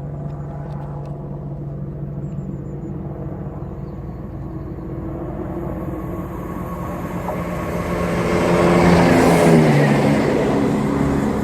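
A Class 170 Turbostar diesel multiple unit passing through the station without stopping. Its diesel engine note builds to a loud rush of wheel and air noise about nine seconds in, and the pitch drops as it goes by.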